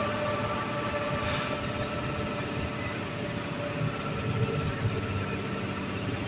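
Steady rumble and hiss of a truck driving along the road, with engine and road noise and a few faint steady tones.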